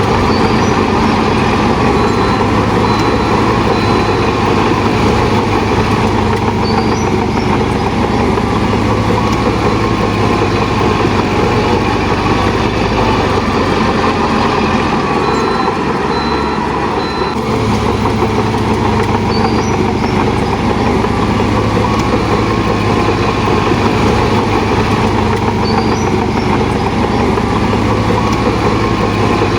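Heavy diesel engine of a Shantui DH17 bulldozer running steadily under load. A few short high beeps sound twice, near the start and about halfway through.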